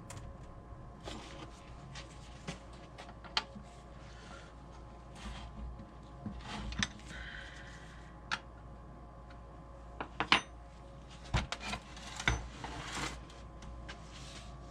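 Scattered clinks, taps and short scrapes of metal brake parts being handled and set down while a Rolls-Royce Phantom III front brake backing plate assembly is taken apart, with a cluster of louder knocks in the second half. A faint steady hum runs underneath.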